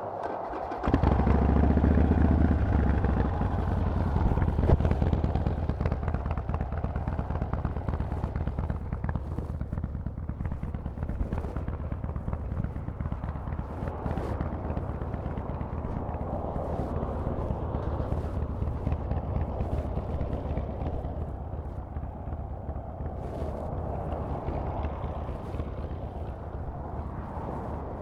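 Harley-Davidson Forty-Eight's air-cooled 1200 cc V-twin running through Vance & Hines exhaust pipes. It comes in suddenly with a loud, low rumble about a second in, then settles to a steadier, quieter running note.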